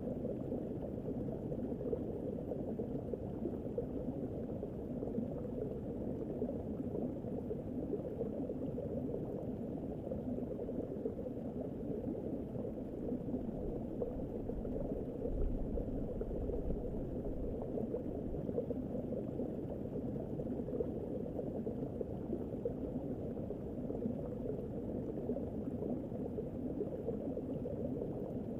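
Steady bubbling, rushing water noise that keeps an even level throughout.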